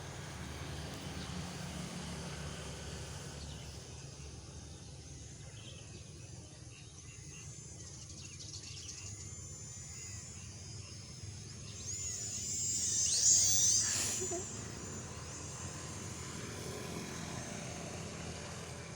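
Homemade model plane's small electric drone motors and propellers whining in flight. A high, wavering whine swells to its loudest about two-thirds of the way through, then fades, over a low steady rumble.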